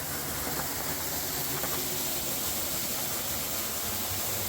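Steady rush of water pouring over a partly frozen drop waterfall.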